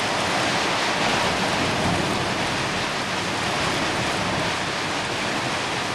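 Steady noise of a heavy coastal wind and rain storm: an even hiss with no separate events.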